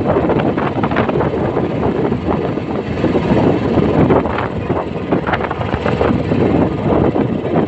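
Royal Enfield Classic 350's single-cylinder engine and exhaust running steadily while the motorcycle is ridden.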